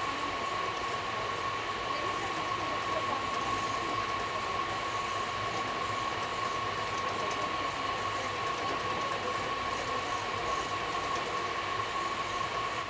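Passenger train running, a steady rolling noise with a steady whine over it.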